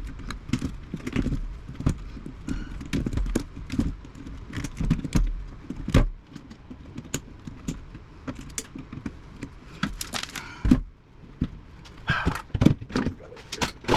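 Hand tools snipping and metal parts clinking and rattling as the wire-filled metal chassis of a 1950s Philco tube radio is cut apart. The clicks and knocks come irregularly, with a heavier knock about six seconds in and another near eleven seconds, and a quick jangly cluster near the end.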